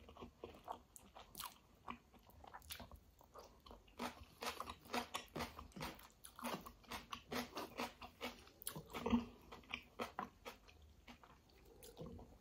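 Close-up mouth sounds of a person chewing a mouthful of kadhi chawal (yogurt curry and rice) eaten by hand: irregular soft wet clicks and small crunches, several a second, busiest about two thirds of the way through.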